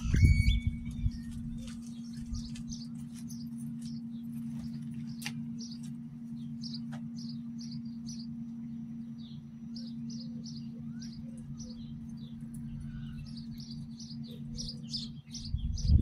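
Small birds chirping again and again in short high calls over a steady low hum, with a brief loud bump right at the start.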